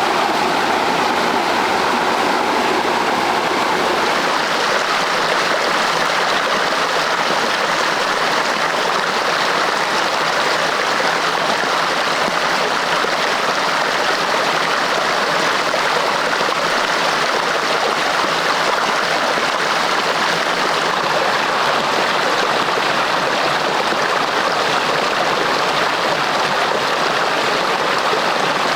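Running water: a steady rush, like a stream or water pouring.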